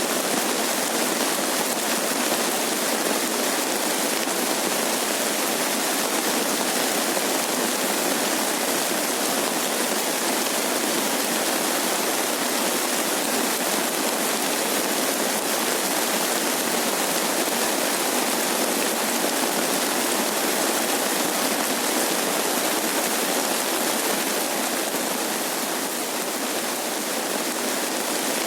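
Steady rain falling, an even unbroken hiss with no single drops or thunder standing out.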